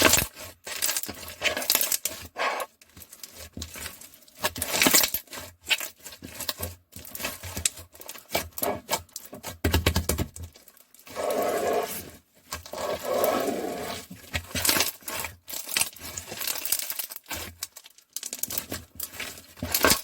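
Crystal (clear) slime being pressed and stretched by hand, giving an irregular run of sharp clicks and crackles, with two longer, fuller stretches of sound a little past the middle.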